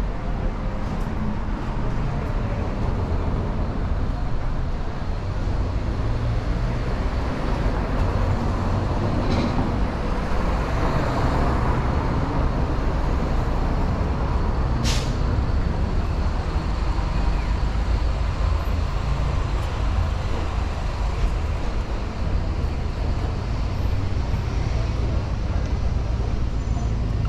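Street traffic: the engines of passing vehicles rumble steadily close by, with a brief sharp noise about halfway through.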